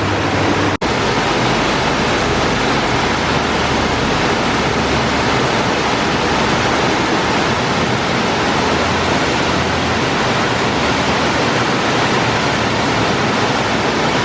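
Waterfall rushing steadily, a loud even roar of falling water, with a brief cut-out about a second in.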